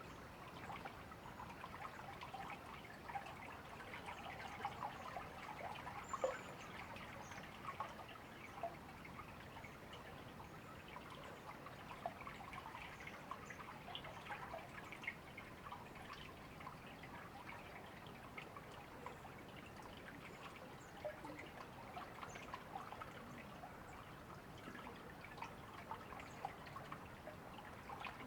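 A small river or stream trickling and babbling steadily over stones, with a few faint, high bird chirps now and then.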